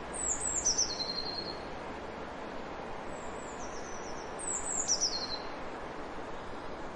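A songbird singing three short, high phrases that fall in pitch: near the start, about three seconds in, and again a little later, over a steady background hiss.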